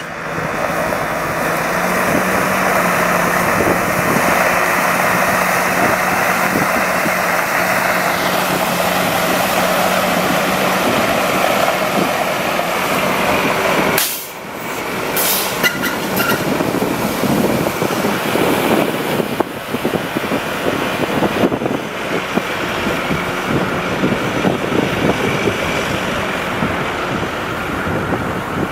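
International 4300 water truck running steadily, a loud, even mechanical noise with a low hum. The sound breaks off briefly about halfway through, then continues.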